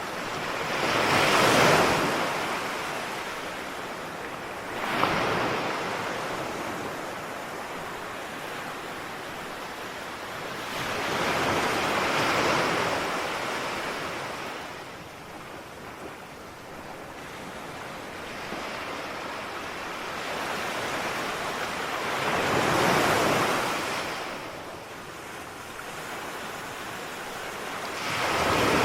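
Ocean waves breaking on a shore: a steady wash of surf with a wave crashing every few seconds, the loudest about a second in and again about three-quarters of the way through.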